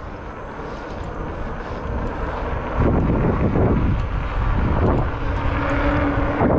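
Wind rushing over the microphone with rumbling road noise from the fat tyres of an Ecotric 500-watt electric fat-tire bike while riding, getting louder about three seconds in.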